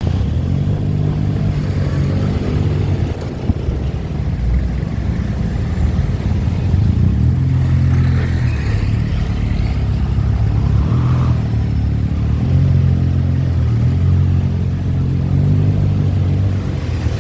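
Motorbike engine running under way, its pitch rising and falling in steps with the throttle, over a steady low rumble of riding.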